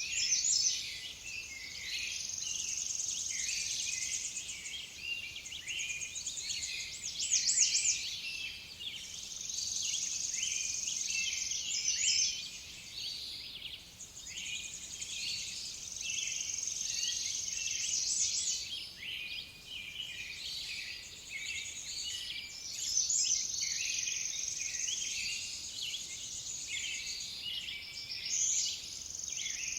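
Several songbirds chirping and singing at once, layered over high, steady trills that run a few seconds at a time and recur throughout.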